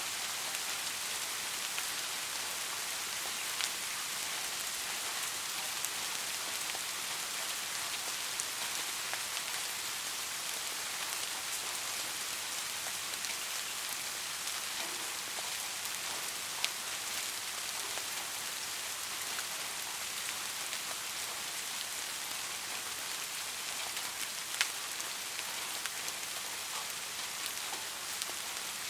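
Steady, gentle rain falling, an even hiss with occasional louder individual drops ticking.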